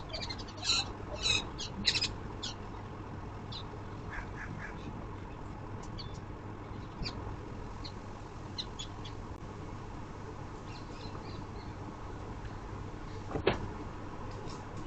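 Birds calling: a quick run of about four harsh calls in the first couple of seconds, then scattered short chirps, over a steady low hum. A single sharp knock comes near the end.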